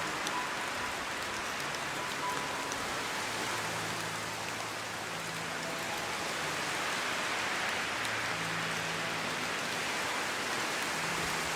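Steady rainfall, a dense even hiss of drops on a surface. Faint, soft sustained notes of background music lie beneath it.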